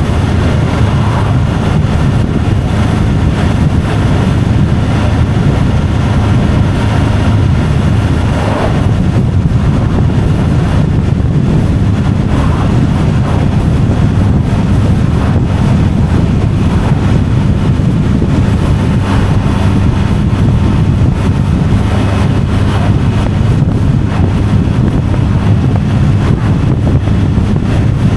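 Vehicle driving along a road: a steady, loud low rumble of engine and road noise with wind on the microphone.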